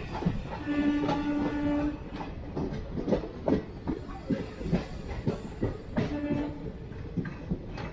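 Passenger train running with the clickety-clack of its wheels over rail joints, while a train horn sounds a long blast of about a second early on and a short second blast near the end.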